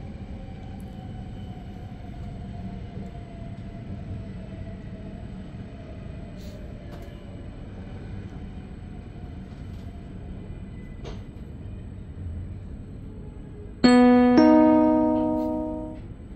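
Steady running rumble inside an SBB double-deck DPZ train hauled by an Re 450 locomotive, with a motor whine slowly falling in pitch as the train slows. Near the end the on-board announcement chime sounds two ringing notes that fade out.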